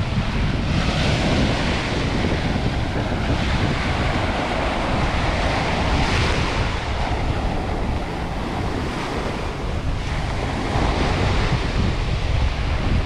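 Sea waves washing onto a sandy beach, swelling and fading every few seconds, with wind buffeting the microphone in a steady low rumble.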